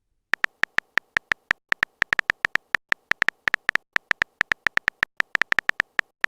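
Smartphone keyboard typing sound: a rapid run of short, sharp, uneven clicks, about six a second, as a chat message is typed out.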